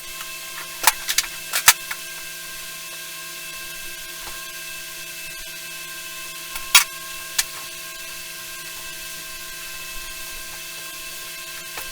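A steady, high electrical-sounding hum with scattered sharp clicks and knocks: a few in the first two seconds, and a louder pair about seven seconds in.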